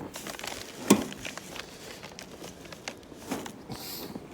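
Scattered light clicks and rustling with one sharp click about a second in: handling noise of someone moving around and working a snow-covered garden tractor's controls, its engine not yet running.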